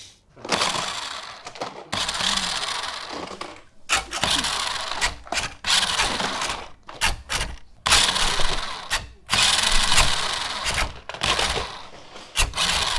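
Small plastic toy cars rolling and clattering along the plastic track of a VTech Go! Go! Smart Wheels playset, in uneven bursts broken by short pauses and clicks.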